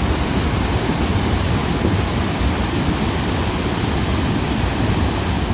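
Flash-flood torrent rushing past, a loud steady wash of fast, churning floodwater carrying rocks and logs.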